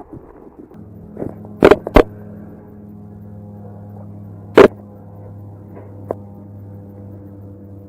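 A steady mechanical hum with a low, even pitch starts about a second in and keeps going. Three sharp, loud knocks cut through it, two in quick succession about two seconds in and one about four and a half seconds in.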